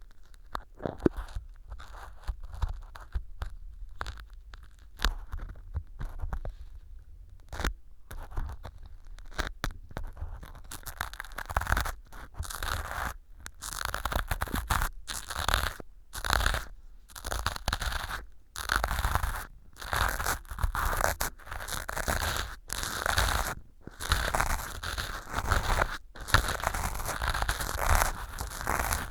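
Ear pick scraping and crunching through small pieces of floral foam packed as fake earwax in a silicone ear model, close to a binaural microphone. Soft, sparse scrapes at first, then denser, crisp crunching strokes from about ten seconds in, each lasting about a second with short pauses between.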